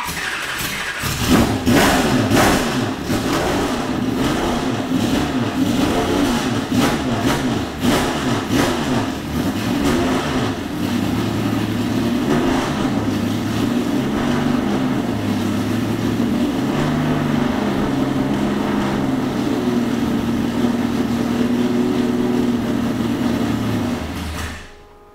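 Race-built 1973 Datsun 240Z's 3-litre stroker straight-six firing up, blipped repeatedly for the first ten seconds or so, then settling to a steadier idle with a couple of small revs, and shutting off near the end.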